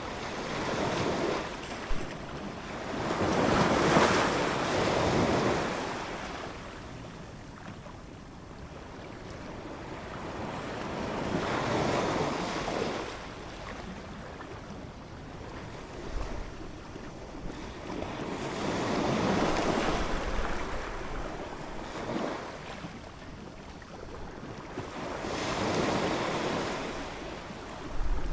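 Ocean waves breaking and washing in, the surf rising and falling in long surges about every seven or eight seconds.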